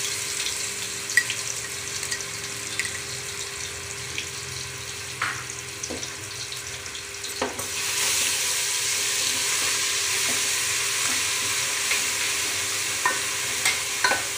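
Ginger-garlic paste sizzling in hot oil in an aluminium pot while it is stirred, with a utensil scraping and tapping against the pot now and then. The sizzle grows louder about halfway through as the paste is sautéed toward golden brown as the base of a gravy.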